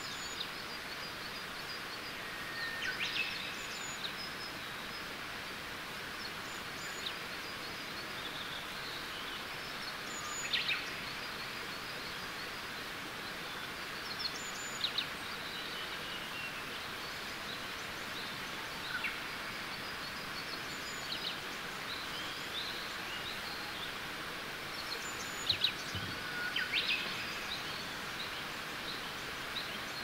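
Wild birds chirping and calling in short phrases every few seconds over a steady outdoor hiss.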